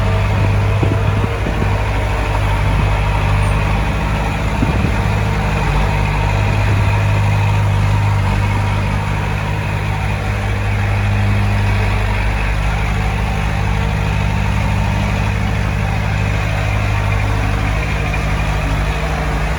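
Heavy diesel engine running steadily at a low, even speed, with a few faint knocks early and about five seconds in.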